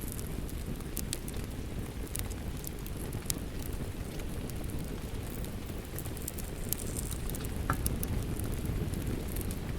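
Wood fire crackling with scattered sharp pops, over a steady low rush of rain.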